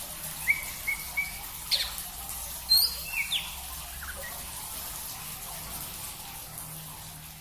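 Songbirds chirping and calling: a few short chirps, then sharp quick calls in the first few seconds, over a steady hiss. The hiss gradually fades near the end.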